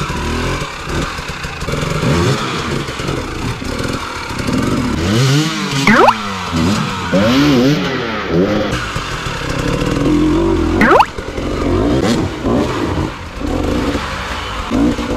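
Husqvarna TE 300i two-stroke dirt bike engine revving up and down under changing throttle, with three sharp, quick rises in pitch about six, eleven and fifteen seconds in.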